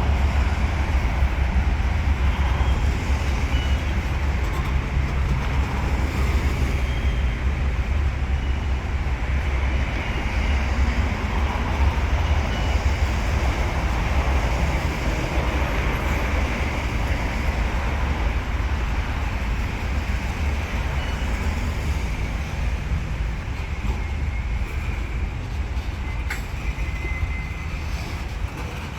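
Freight train rolling past with a steady low rumble, getting slightly quieter near the end, with a few brief high-pitched squeaks over it.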